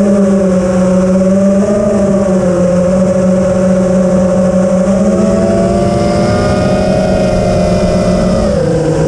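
Quadcopter drone's propellers humming steadily, the pitch dipping briefly near the end.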